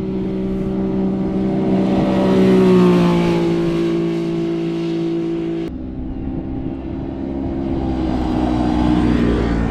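Motor vehicles passing on a road. An engine drone swells and drops slightly in pitch as the first one goes by, then after an abrupt cut a second vehicle's engine builds toward the end.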